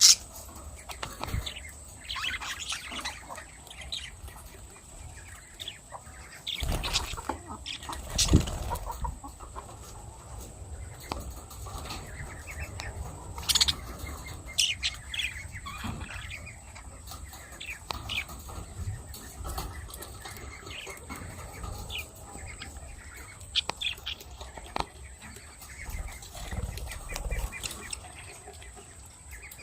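Lovebirds fluttering their wings in short flurries and giving short chirps, with a louder flurry about seven to eight seconds in.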